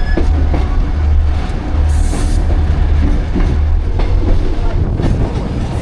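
Passenger train running along the track, a steady low rumble with clatter from the carriage, heard from on board.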